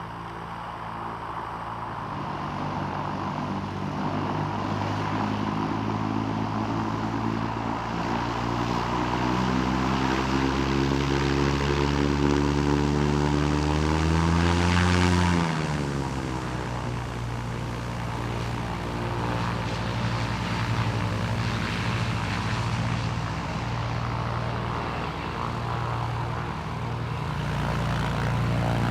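Propeller light aircraft engine passing close by. Its note grows louder, then drops in pitch about halfway through as it goes past, and an engine keeps running steadily afterwards.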